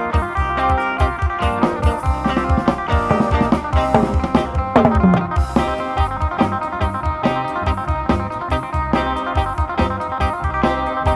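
Live band music: an electric phin (Isan lute) playing a plucked melody over a drum kit with a steady beat and bass. About halfway through there is a long downward slide in pitch.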